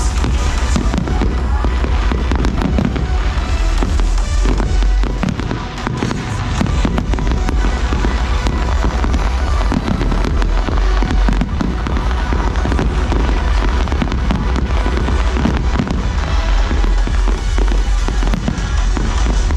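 A fireworks display sends out a dense, continuous volley of bangs and crackles with heavy low booms, over loud music from the show's soundtrack.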